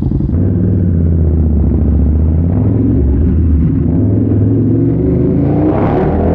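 KTM Super Duke 1290 R's V-twin through an Austin Racing exhaust, running at steady low revs on the move. The revs climb about two-thirds of the way through.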